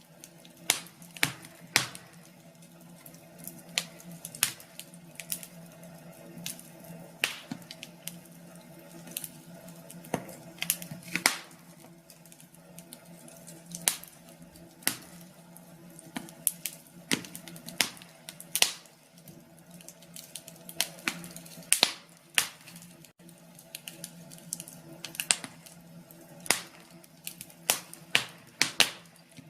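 Wood fire crackling: irregular sharp pops and snaps, sometimes several in a second, over a steady low hum.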